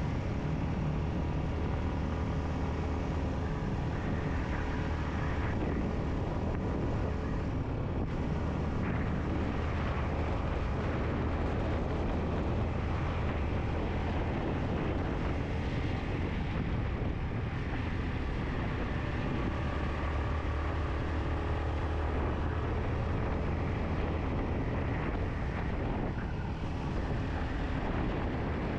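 Yamaha MT-15's single-cylinder engine running steadily under way, with a continuous rush of wind and road noise.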